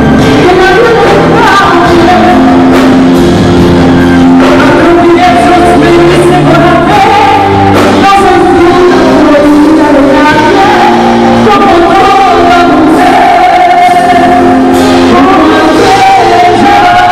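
A song performed live: voices singing long held notes over instrumental accompaniment.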